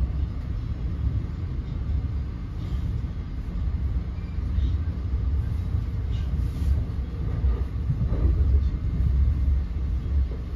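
NJ Transit Multilevel commuter coach running at speed, heard from inside the passenger cabin: a steady low rumble of wheels on rail, with a few faint clicks.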